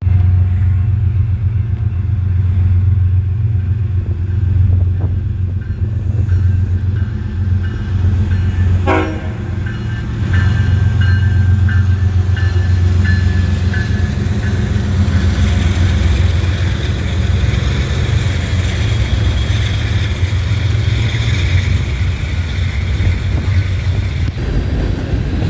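A train running close by: a loud, steady low drone of locomotive engines, with rushing wheel-and-rail noise rising about two-thirds of the way through.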